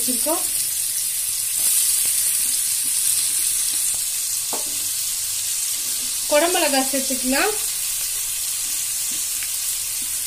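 Sliced onions sizzling steadily in hot oil in a pan.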